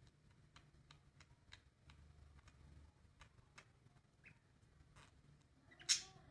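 Faint, irregular clicks, two or three a second, then a short, loud, harsh call from a bird near the end.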